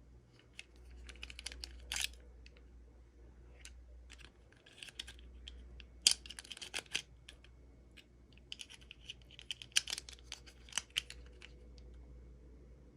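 Toy packaging being handled and opened by hand. The sound comes in short runs of small sharp clicks and crinkles, several times, with pauses between them.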